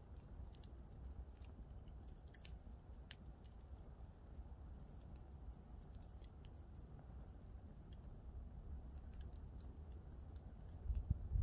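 Campfire crackling: sparse faint pops and snaps over a steady low rumble, with a few louder low thumps near the end.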